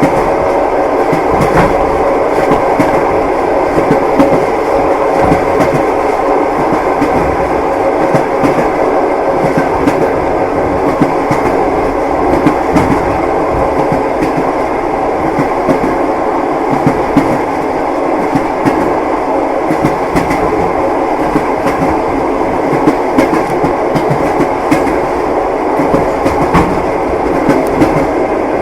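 Train wheels knocking on the rails with a continuous rolling rumble, scattered clicks and a steady hum.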